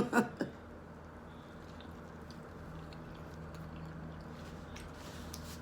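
Faint close-up chewing with a few soft mouth clicks and smacks, over a steady low hum.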